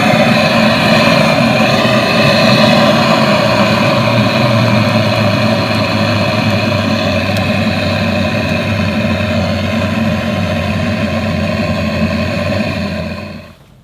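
Handheld gas torch running with a loud, steady jet hiss, held on firewood in a wood stove to light it; the flame is shut off abruptly near the end.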